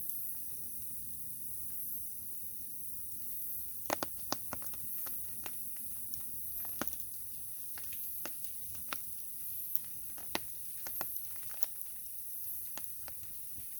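Wood fire crackling, with sharp irregular pops starting about four seconds in, over a steady high hiss.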